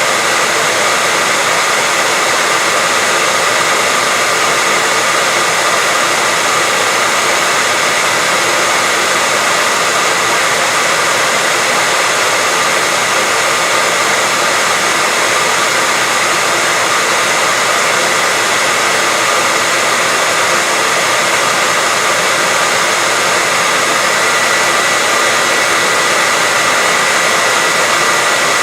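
Steady, unbroken white-noise hiss, bright and thin in the low end, with a faint steady tone running through it.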